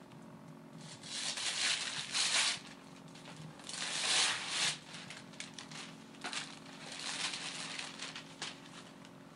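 Gift wrapping paper being torn and crumpled as a present is unwrapped, in three spells of rustling: about a second in, around four seconds in, and again from about six to eight seconds.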